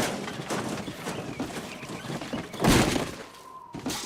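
Cartoon sound effects: light metallic clicking and clatter, with one heavy thud about two and a half seconds in.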